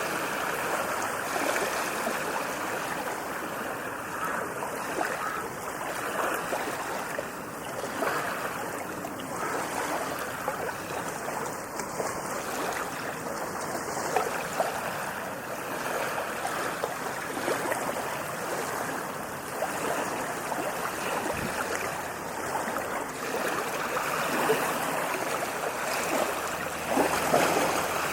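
Ocean waves washing onto a beach, a continuous rushing surf that swells and eases gently, a little stronger near the end.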